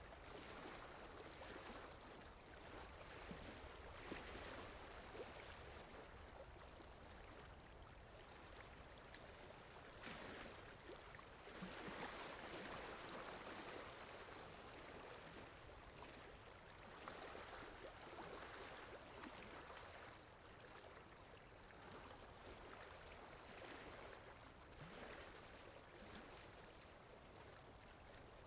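Steady rain falling, a soft even patter that swells a little about ten seconds in, with a few faint drips standing out.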